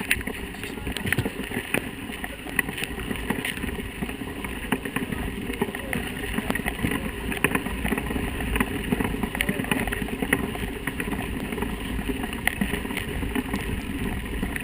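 Mountain bike ridden over a rough trail: a steady rumble with constant irregular rattling and knocking.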